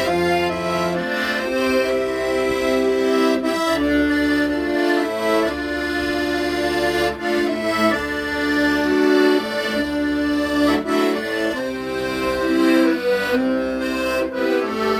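Accordion playing a slow melody over sustained chords, with bass notes changing every second or two.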